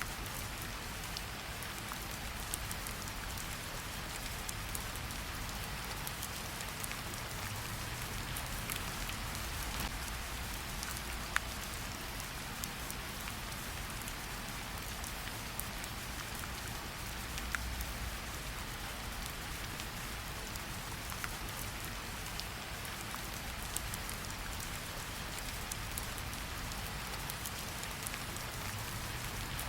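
Steady rain falling, an even hiss with scattered louder single drops ticking through it and a low rumble underneath.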